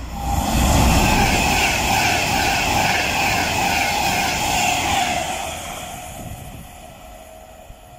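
Class 390 Pendolino electric train running through a station at speed: a loud rush of wheels and air with a steady high whine, fading away from about five seconds in.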